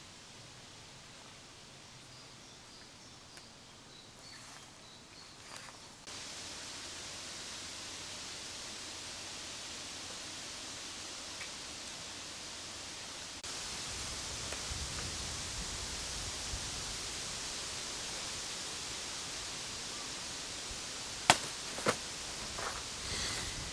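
Steady outdoor background noise, an even hiss that steps up in level twice. A few faint high chirps come in the first seconds, and a few sharp knocks come near the end, the first of them the loudest.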